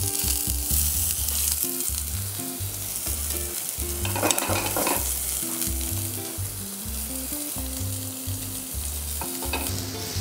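Minced-pork patties, set on zucchini and eggplant slices, sizzling in hot oil in a nonstick frying pan, just laid in to fry. The sizzle swells briefly about four seconds in.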